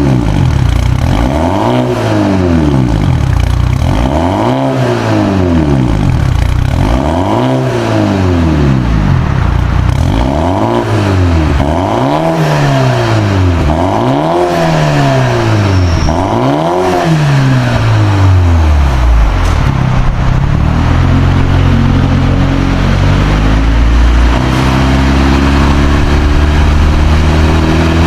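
BMW 330e's B48 turbocharged four-cylinder engine revved through an aftermarket catback exhaust: repeated free-rev blips about every two seconds, each rising and falling in pitch. After about nineteen seconds it settles into steadier held tones that step up in pitch near the end.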